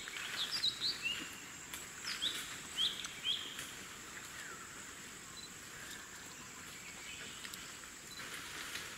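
Forest birds calling: a quick series of short, high chirps and sweeping notes in the first few seconds, then fewer, over a faint steady high-pitched whine.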